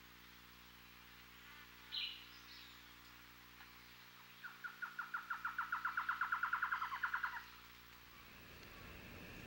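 A bird's rapid trill, about ten notes a second, growing louder for about three seconds before stopping abruptly, with a single short chirp about two seconds in.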